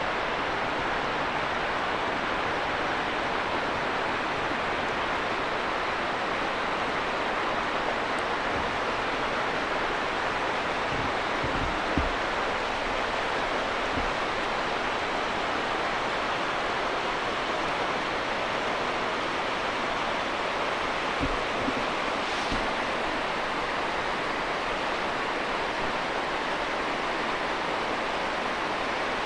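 Steady rushing noise of a passenger train in motion, heard from on board: an even wash of wheel and air noise, with a few faint knocks from the running gear.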